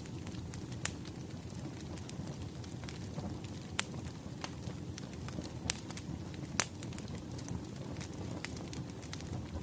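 Wood fire crackling: a steady low rumble of flames with scattered sharp pops, four of them louder than the rest.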